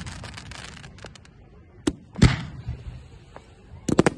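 Fireworks exploding: a faint crackle early on, then two sharp bangs about two seconds in, the second one echoing, and a quick cluster of bangs near the end.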